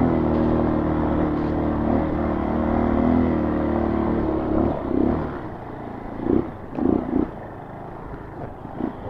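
Honda CRF230 dirt bike's single-cylinder four-stroke engine running steadily at low trail speed, then dropping away about four and a half seconds in to a much quieter low idle with a few short bursts of throttle.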